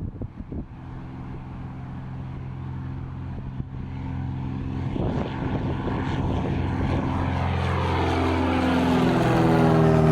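Light propeller aircraft's piston engine running steadily and growing louder over the last few seconds as it comes close.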